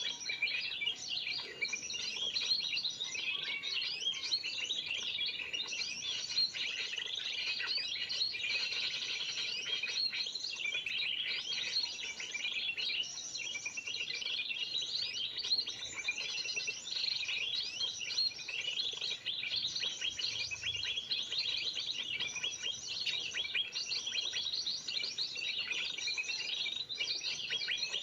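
Dense, unbroken chorus of many small birds chirping and twittering rapidly, high-pitched and overlapping: a 'noisy birds' lure recording played to attract birds such as spiderhunters.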